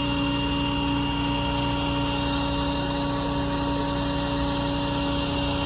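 A vehicle engine idling steadily: a constant hum of several held tones over a low rumble, with no change in speed.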